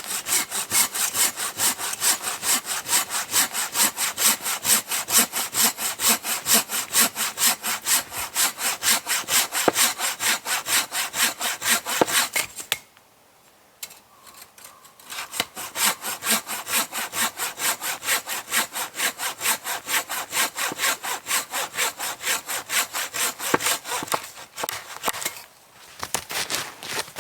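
Hand saw cutting through a fallen tree trunk with quick, even back-and-forth strokes. It stops for about two seconds around the middle, then sawing resumes with a short break near the end.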